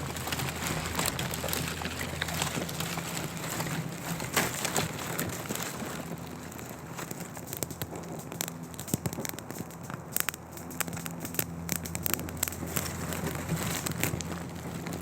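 Newly lit campfire kindling catching and crackling, with irregular sharp pops and snaps. A steady low hum runs underneath.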